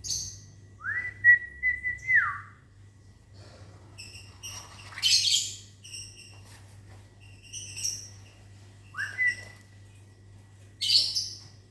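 A person whistles a held note, sliding up into it and dropping off at the end, about a second in and again near the end. Between the whistles, lovebirds answer with short shrill chirps, with a harsher burst of calling in the middle.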